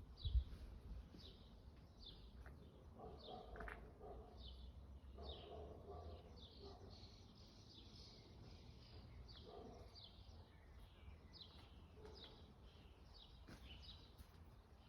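Birds chirping faintly: a long run of short, high, falling chirps repeated about twice a second, with a few lower calls between them.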